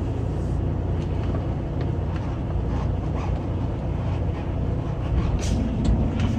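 Semi truck's diesel engine running steadily under load as the truck is driven slowly. Its note rises slightly, with a steadier hum coming in, about five and a half seconds in.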